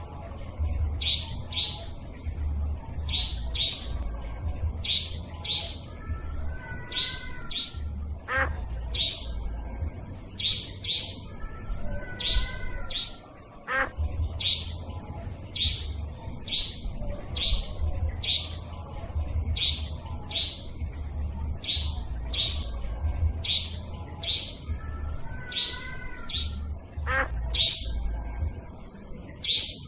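Nightjar (cabak) calls played as a bird-lure recording: a sharp, high call repeated in quick pairs, about once every one to two seconds. A low rumble runs underneath, and a few short, lower warbling phrases come in now and then.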